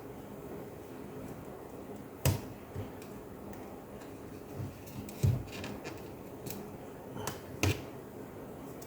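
A few sharp clicks and knocks as laptop parts are handled and pressed into place, the loudest about two, five and seven and a half seconds in, over a low steady hum.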